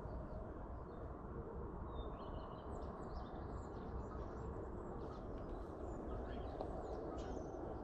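Birds chirping with short high calls, scattered and overlapping from about two seconds in, over a steady low background noise.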